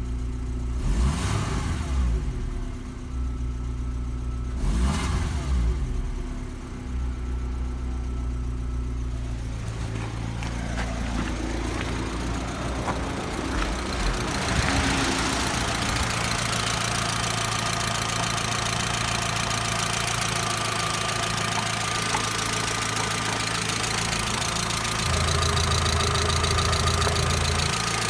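Volkswagen Golf IV 1.6-litre petrol four-cylinder engine (code APF) running: two short revs near the start, then a steady idle through the second half.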